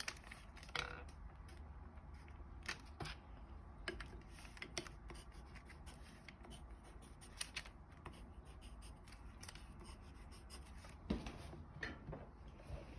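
Origami paper being handled and folded, with scattered light crinkles, taps and scratches.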